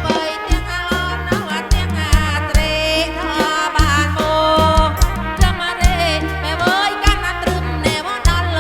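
Live kantrum folk music played loud through a PA: a deep bass line and steady drum beat under a wavering melodic line.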